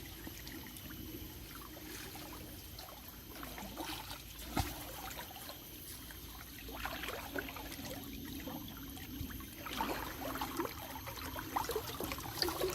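Small river water trickling and splashing, with irregular little splashes and one sharp knock about four and a half seconds in.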